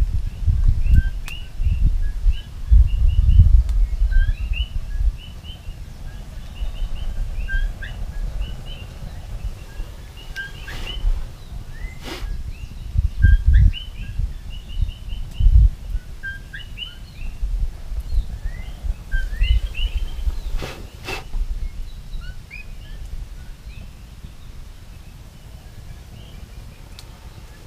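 Small birds chirping over and over in short, quick calls, over low rumbling noise that is heaviest in the first few seconds. A few sharp pops or clicks come at scattered moments.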